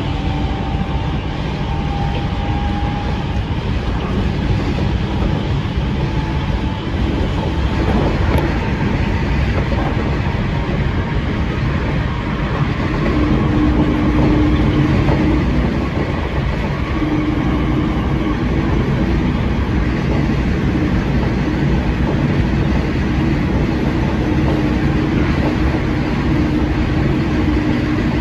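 Hankyu 7000 series electric train running at speed, heard from inside at the front cab: a steady rumble of wheels on rail, with a steady low whine coming in about halfway through.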